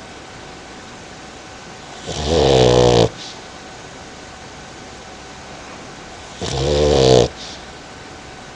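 A dog snoring: two loud snores, each about a second long and growing louder, about four seconds apart.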